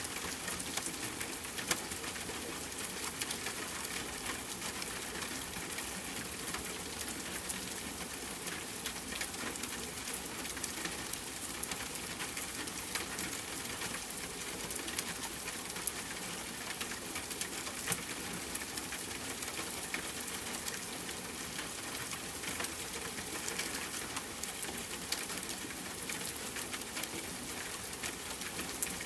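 Steady rain falling, a dense patter of drops hitting a surface, with a few sharper, louder drop strikes.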